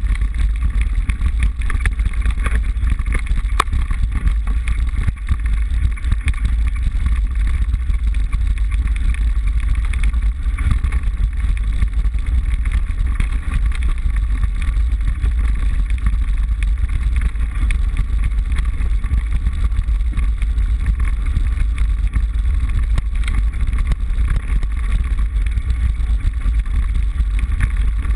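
Steady loud rumble of wind and road vibration on a handlebar-mounted GoPro HD HERO 960 in its housing as a mountain bike is ridden, with scattered small rattles and clicks from the bike.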